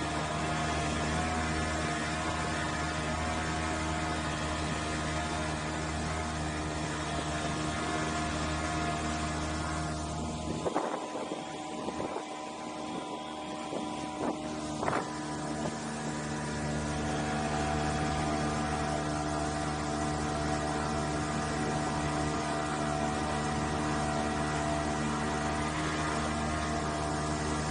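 A small engine running at a steady speed. About ten seconds in, its low hum drops away for a few seconds, with a few knocks, then it comes back and runs steadily again.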